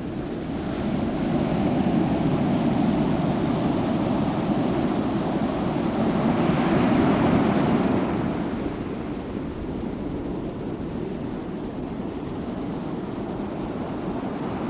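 Sea waves washing in: a steady rush of surf that builds to one louder surge about seven seconds in, then ebbs back.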